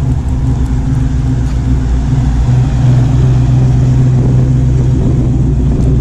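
Car engine running steadily at low speed as a car pulls slowly in.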